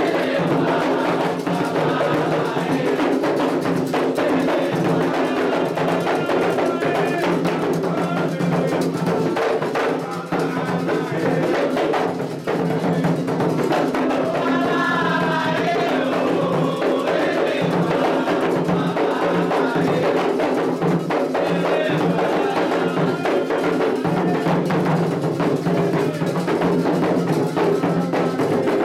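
Candomblé ritual drumming: atabaque hand drums playing a steady, driving rhythm with a struck bell or wood-block-like beat on top. Voices sing along, clearest about halfway through.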